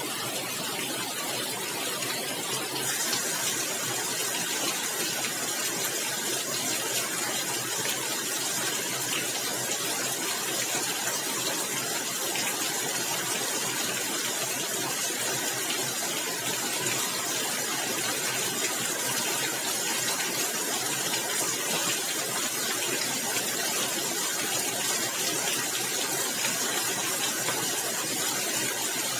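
Heavy rain falling on a tiled roof and the ground around it: a steady, dense hiss that picks up slightly about three seconds in.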